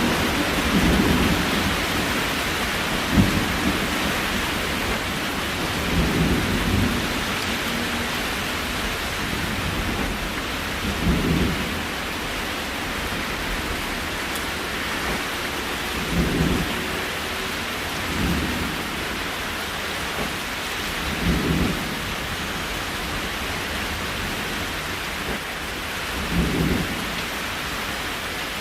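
Steady rain falling, with a short, dull low thump every few seconds.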